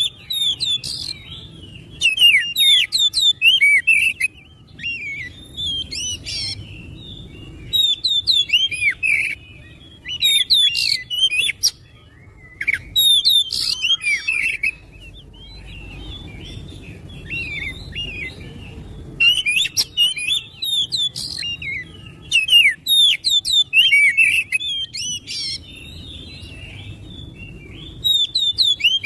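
Oriental magpie-robin (kacer) singing in full song: bursts of rapid, varied whistles and chirps in phrases a second or two long, separated by short pauses.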